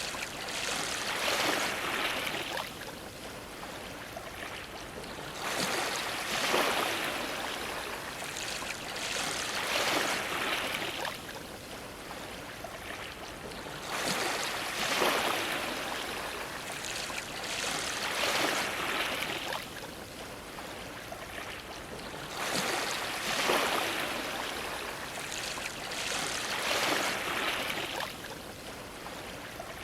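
Ocean waves washing against a dock: a rushing surge of water every three to five seconds, about seven in all, each easing off into a quieter wash before the next.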